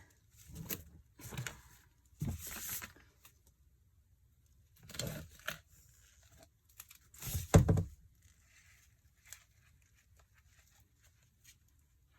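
A run of short rustling, tearing handling noises, about five in all, with the loudest, a thump, about seven and a half seconds in.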